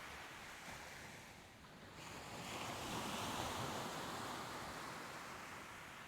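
Soft ocean waves: a wave swells about two seconds in, peaks, then slowly fades as it washes back.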